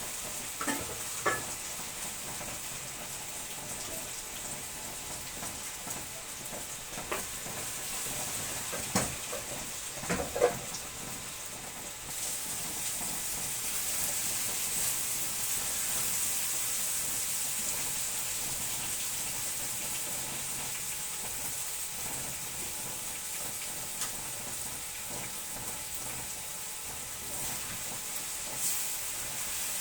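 Chicken cubes and green pepper sizzling in a frying pan, a steady high hiss that grows a little louder about twelve seconds in. Several sharp knocks of a utensil against the pan in the first ten seconds or so, as the food is stirred.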